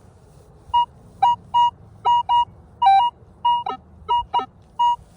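Metal detector beeping as its coil is swept over a buried target: about a dozen short beeps, mostly on one steady tone, some joined by a lower second tone.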